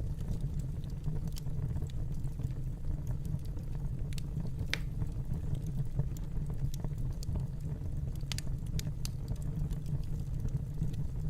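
Fireplace fire crackling: scattered sharp snaps over a steady low background.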